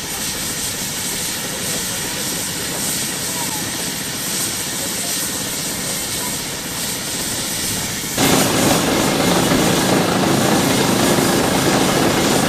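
Heavy engine running steadily under load, with a sudden step up to a louder, harsher sound about eight seconds in.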